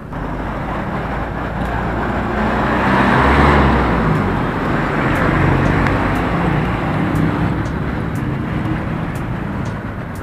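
A motor vehicle passing close by, its engine and tyre noise swelling to loudest about three seconds in and then slowly fading.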